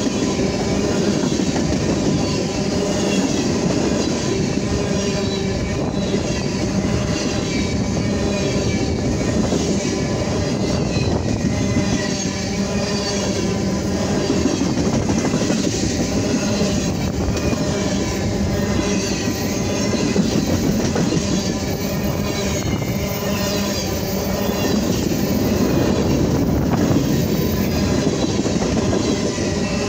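Tank cars of a freight train rolling past at trackside: the steel wheels running on the rails make a loud, steady noise throughout.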